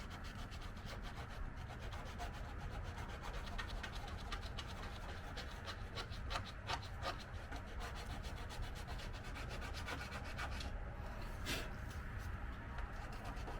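Sandpaper rubbed by hand over a car's painted body, a continuous scratchy scuffing of quick short strokes with no motor. It is scuffing the old paint in the small cracks and crevices so the new paint will adhere.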